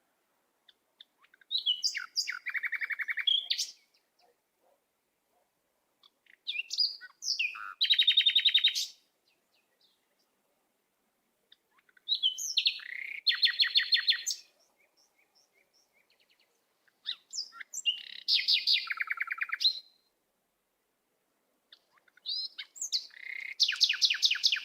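A songbird singing: five phrases of rapid high chirps and trills, about one every five seconds, with silence between them.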